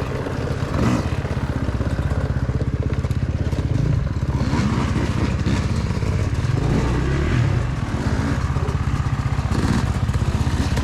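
Dirt bike engine running steadily as the bike is ridden along a trail, the engine note rising and easing a little as the throttle changes.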